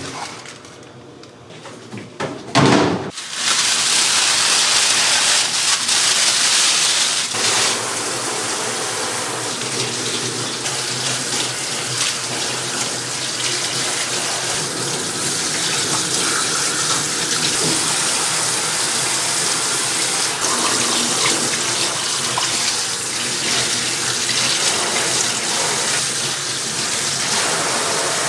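Water running steadily from a tap into a sink, starting about three seconds in just after a short knock.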